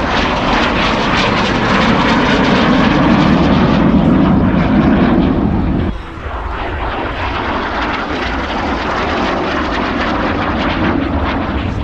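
Loud engine noise of an aircraft flying past at an airshow display, a dense steady rush that dips suddenly about six seconds in and then carries on a little quieter.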